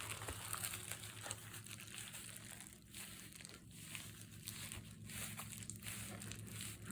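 Faint crinkling and rustling of a padded recycled-envelope notebook cover with paper glued on as it is folded in half by hand.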